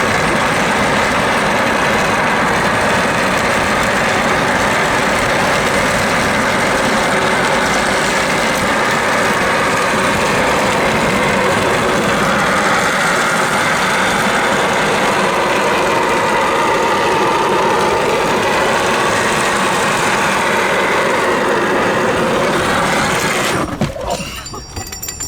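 Loud, steady rolling and scraping road noise of a couch dragged on its casters over asphalt behind a moving car. The noise drops away suddenly near the end.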